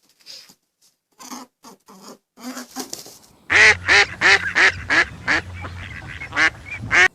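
An animal calling: a few scattered short calls, then from about halfway a loud, rapid run of repeated pitched calls, two to three a second.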